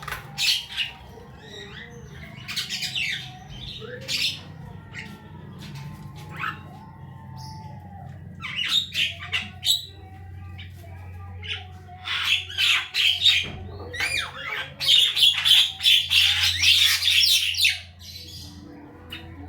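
Javan myna giving harsh squawking calls and chattering in irregular bouts, busiest near the end, over a faint steady low hum.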